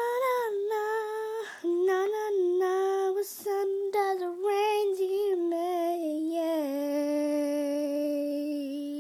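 A young female voice singing a wordless melody solo. The notes step downward and end on a long held low note over the last two or three seconds.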